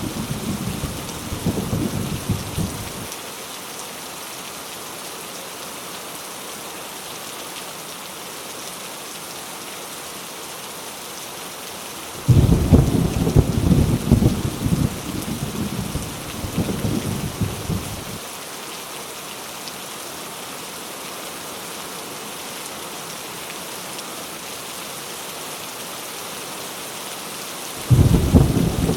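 Heavy rain falling steadily, with rolling thunder. One rumble dies away in the first few seconds, a second breaks in suddenly near the middle and rumbles for about six seconds, and a third begins near the end.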